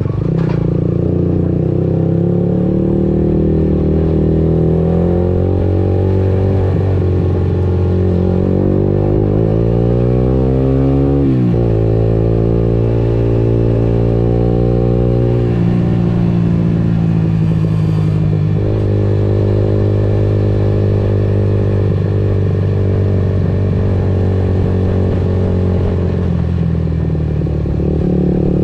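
Motorcycle engine running while riding, heard from an onboard camera. Its pitch rises as it revs for a few seconds, drops sharply at a gear change just past the middle, then holds steady at cruising speed.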